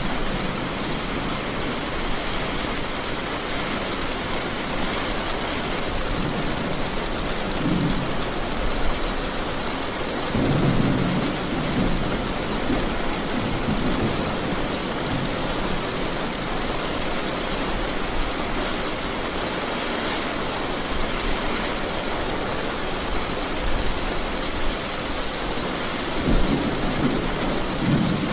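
Steady rain with thunder rumbling now and then, the rumbles swelling about ten seconds in and again near the end.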